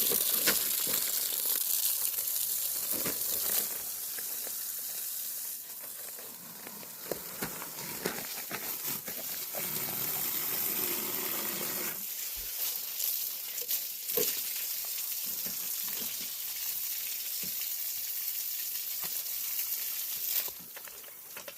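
Water spraying from a hose that is fed with mountain-stream water: a steady hissing spray, loudest in the first few seconds, with scattered splashes.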